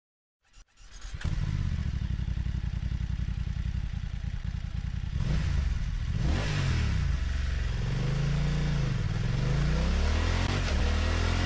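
BMW motorcycle engine starting about a second in, then idling and revved twice, its pitch rising and falling with each rev.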